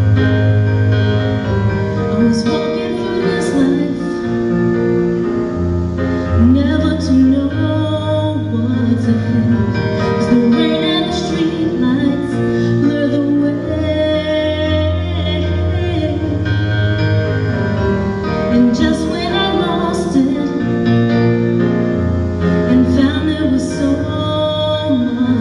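A woman singing over keyboard accompaniment, with sustained piano-like chords and low bass notes that change every few seconds.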